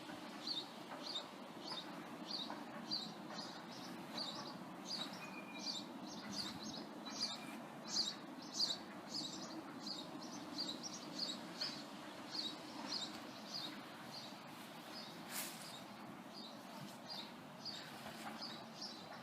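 A songbird chirping over and over, high-pitched, about two chirps a second, over a faint steady low hum.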